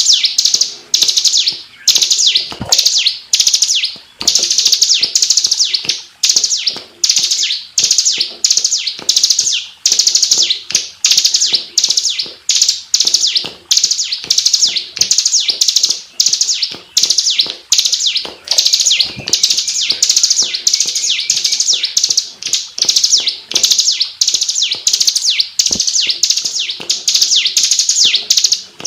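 Bar-winged prinia (ciblek) singing nonstop: fast, dense, high trills of rapidly repeated notes, in phrases of about half a second to a second with short breaks between them.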